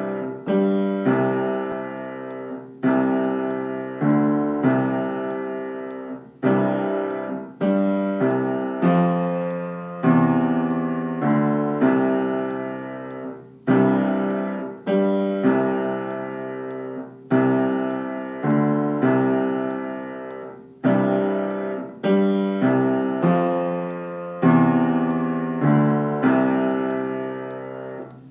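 Piano playing the secondo (lower) part of a piano duet: chords struck one after another, a new one every second or two, each left to ring and die away, mostly in the low and middle register.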